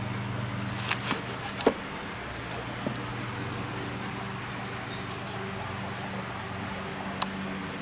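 A few sharp metallic clicks and knocks of hand tools at work on the car, clustered about a second in and once more near the end, over a steady low hum. Faint short bird chirps come in the middle.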